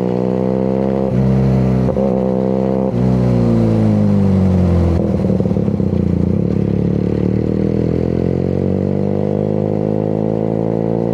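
QJ Motor SRK 400's 400 cc parallel-twin engine running through its exhaust. The note holds with brief breaks in the first three seconds, then falls away as the revs drop. It turns into a choppy, rattly burble about halfway through before settling to a steady lower note.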